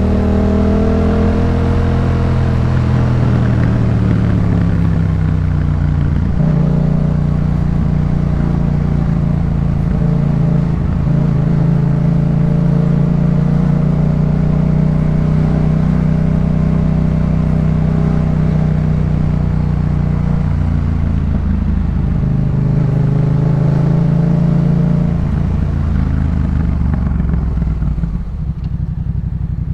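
Yamaha MT-07's parallel-twin engine through a Jeskap K4 full aftermarket exhaust while riding. The engine note falls at first, holds steady at cruising revs for most of the time, then drops to a low, steady idle near the end.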